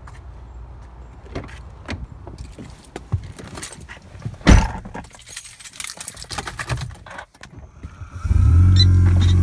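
Keys jangling and handling noises with a single loud knock about four and a half seconds in, then, about eight seconds in, the 2013 Audi A4's engine starts up suddenly and settles into a loud, steady idle: a cold morning start.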